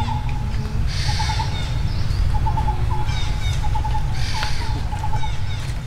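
Birds calling: one bird repeats short quick notes in bursts of three to five, while higher chirps from other birds come in short bursts about every second and a half, over a steady low rumble.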